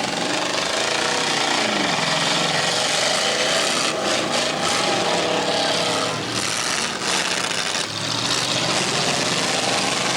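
Several demolition derby cars' engines running and revving together, a loud, dense noise whose pitch rises and falls as the drivers work the throttles.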